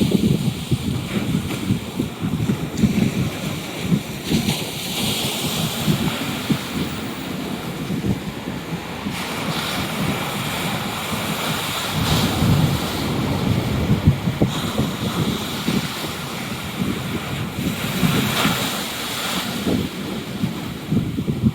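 Choppy sea waves surging and breaking against the seafront, rising in swells several times, with wind buffeting the microphone in gusts throughout.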